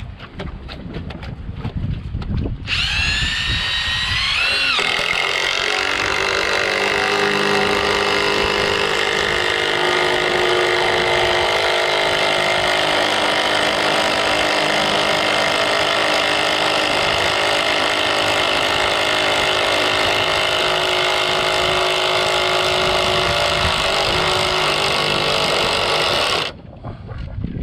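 Power drill spinning up about three seconds in, its whine rising in pitch, then running steadily for about twenty seconds before cutting off suddenly near the end.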